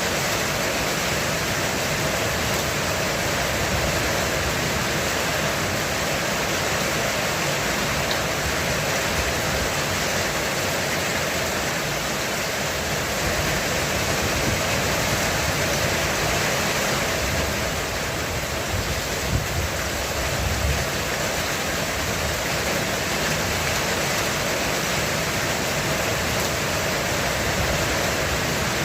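Heavy rain drumming on a roof, a steady dense hiss with no let-up. About two-thirds of the way through come two brief low thumps.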